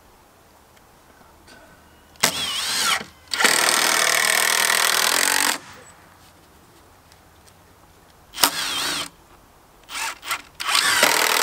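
Power drill driving screws into wood in several bursts, the longest about two seconds, its motor whine starting and stopping with each screw.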